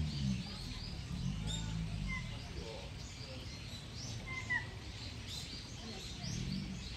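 Small birds chirping repeatedly in high short notes, with two clear, slightly falling whistled notes about two and four and a half seconds in. A low murmur comes and goes underneath near the start and near the end.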